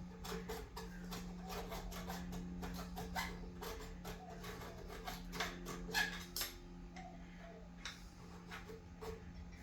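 Hand file rasping on metal in quick, irregular strokes, loudest about six seconds in, over a steady low hum.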